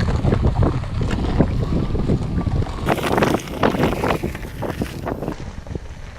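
Wind buffeting the microphone, with irregular crunching and crackling that is densest from about three to five seconds in.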